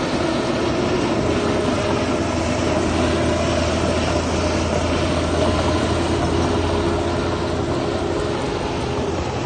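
Diesel engine of heavy earthmoving machinery running steadily, a continuous low drone with no pauses.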